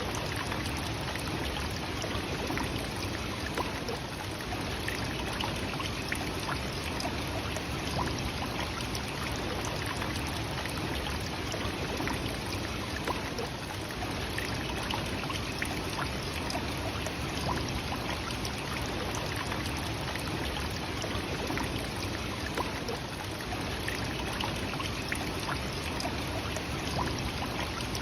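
Nachi Falls, a tall waterfall, rushing steadily: an even roar of falling and splashing water with no change throughout.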